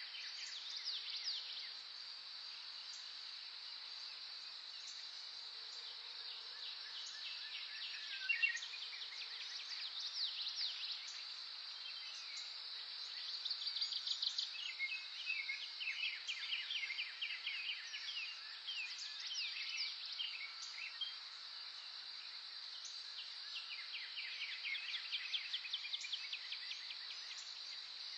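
Songbirds singing rapid trills in repeated bursts over a steady, high-pitched insect drone.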